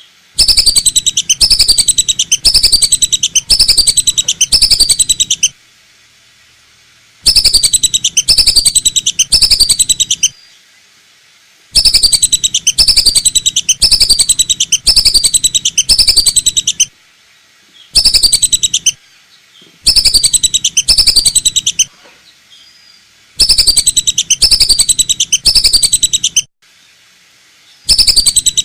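Lesser whistling duck calls used as a hunter's lure: bouts of rapid, repeated high whistles that slide downward in pitch, each bout lasting a few seconds with short pauses between them. Very loud, close to the top of the recording's range.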